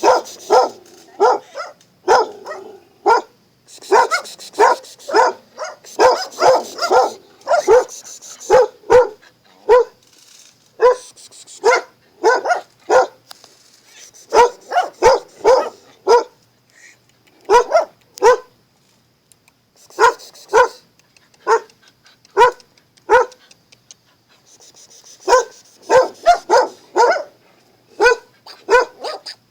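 A dog barking repeatedly in bouts of quick barks, two or three a second, with short pauses between bouts.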